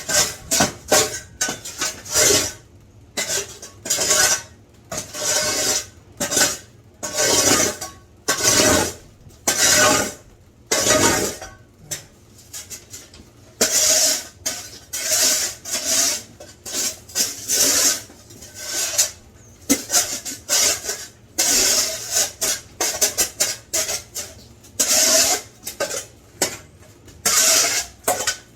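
Repeated rough scraping strokes across the floor, about one or two a second, during clean-up of a wet basement floor.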